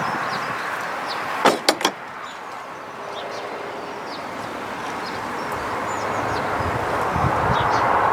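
Three sharp metallic clicks in quick succession about a second and a half in, from a wrench working the leaking compression joint of a plastic water-pipe tee as it is tightened further. Under it is a steady rushing background with small birds chirping.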